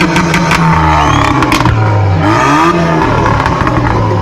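Performance car engine revving through a sport exhaust, rising and falling in pitch a few times, with sharp crackles from the exhaust.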